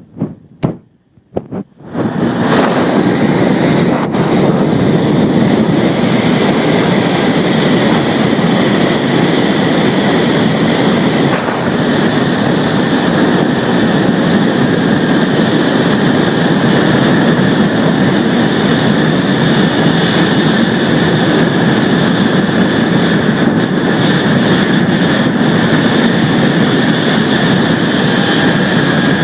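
Motorboat running steadily underway, a loud even drone with wind on the microphone, after a near-silent gap with a few clicks in the first two seconds.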